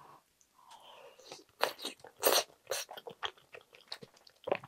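Close-miked chewing of a soft dumpling in soup, with a quick run of irregular wet mouth smacks and clicks, loudest a little after two seconds in.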